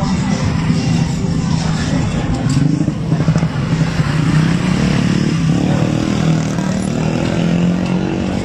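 Small motorcycle and tricycle engines running in slow street traffic: a steady low engine hum whose pitch wavers slightly as the throttles change.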